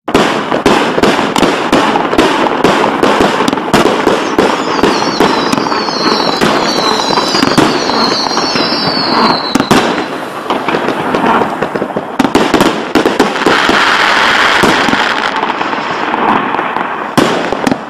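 Pandora fireworks cake firing: shells launch and burst in rapid succession, one after another. Between about four and ten seconds in, several falling high tones run through the bangs.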